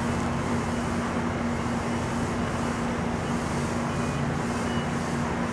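MARC bilevel commuter train standing at the platform, its equipment giving a steady low hum with a constant drone, over an even hiss of rain.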